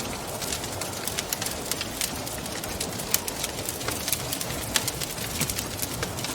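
Wood fire crackling with frequent small sharp pops, over a steady rushing wind; two louder pops about three and five seconds in.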